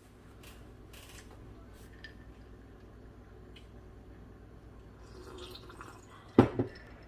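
Quiet wet chewing and mouth clicks while eating, then two sharp knocks close together near the end.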